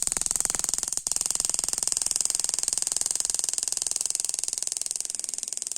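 Sparks from an ignition coil snapping across an adjustable spark gap tester in a rapid, even train of sharp clicks. The spark is weak even at a short gap: the sign of a faulty ignition coil.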